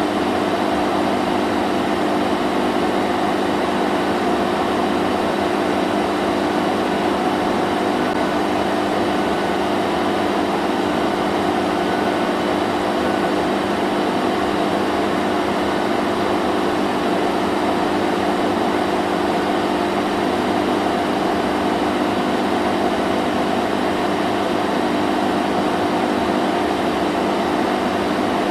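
A vacuum cleaner running steadily: an even motor hum under a constant rush of air, holding the same pitch and level with no change in speed.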